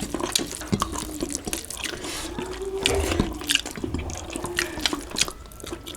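Wet mouth sounds of people eating a mukbang meal of rice and chicken gravy: many quick smacks and clicks of chewing and lip-smacking, with a faint voice or hum partway through.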